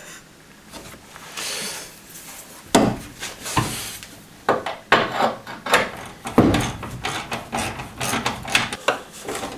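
Hand-work noises of parts and tools being handled: a series of irregular knocks and clunks mixed with scraping and rubbing, with two short hissing scrapes in the first few seconds.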